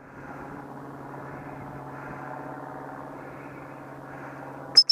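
A steady low mechanical hum, like a running engine, holds throughout. Right at the end a shrill gundog whistle blast starts.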